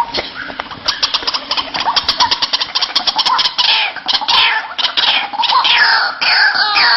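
White-breasted waterhen (ruak-ruak) calling: a fast run of clicking notes, then from about halfway loud falling calls repeated about twice a second.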